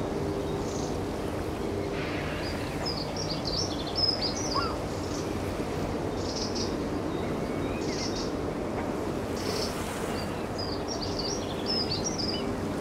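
Small birds chirping in quick twittering runs, twice, high over a steady low rumble and hum, with a few single chirps in between.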